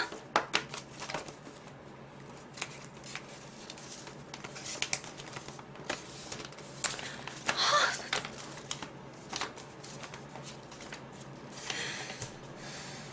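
Paper and plastic packaging being handled: scattered light clicks and rustles, with a louder rustle about halfway through and another near the end.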